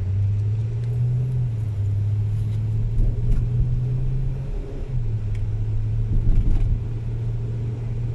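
Steady low drone of a car driving, engine hum and road rumble, with a brief dip a little past halfway.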